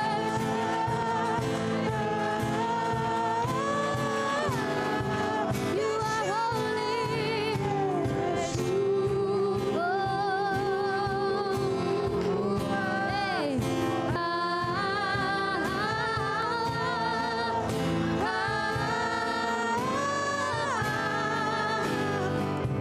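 Live gospel worship song: singing with wavering, held notes over steady instrumental accompaniment.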